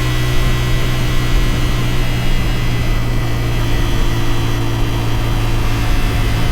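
CFMoto 450SR motorcycle's parallel-twin engine running at a steady speed while riding, with a steady rush of wind noise over it.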